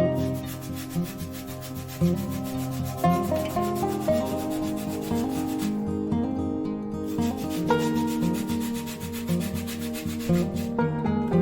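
Rapid, even hand-scrubbing strokes on a stove's surface, pausing for about a second some six seconds in, over background music with plucked notes.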